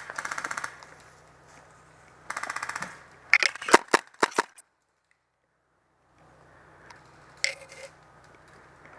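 Airsoft guns firing on full auto: a rapid burst at the start and another about two and a half seconds in, then several loud sharp cracks close together around four seconds. The sound cuts out completely for about a second and a half, and a single crack comes near the end.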